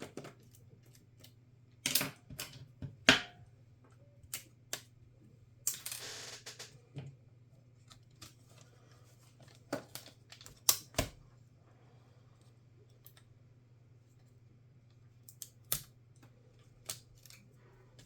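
Small tools and laptop parts clicking and tapping against a laptop's case and internals during disassembly, irregular sharp clicks with a brief scrape about six seconds in.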